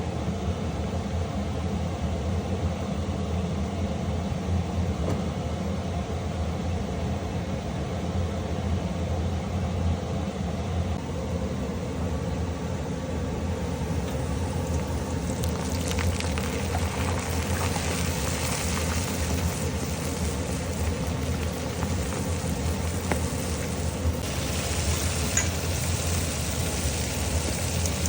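Calamari frying in hot oil: a hissing sizzle that starts about halfway through, over a steady low hum.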